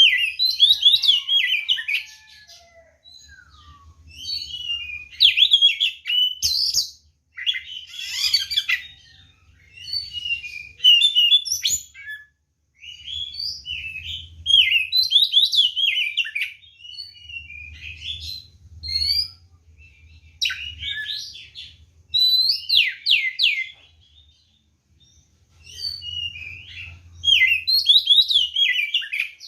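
Oriental magpie-robin (kacer) singing loudly in its aggressive, fighting-mode song: bursts of rapid, varied whistles, sweeps and chatter, each a second or two long, broken by short pauses.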